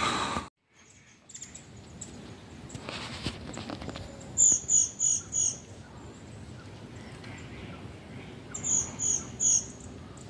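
A wild bird calling two quick runs of four short, high notes, about four seconds apart, over a steady faint background hiss.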